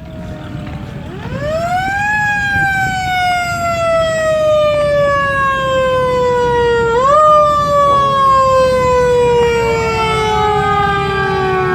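A siren winds up over about a second, then slowly falls in pitch. It gets a short boost about seven seconds in and keeps falling, and a second siren starts winding up near the end, overlapping the first. A steady low rumble runs underneath.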